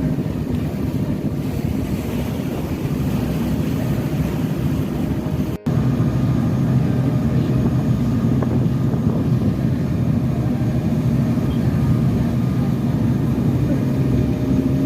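Sightseeing boat's engine running steadily underway, a continuous low drone heard on board, with a brief dropout about five and a half seconds in.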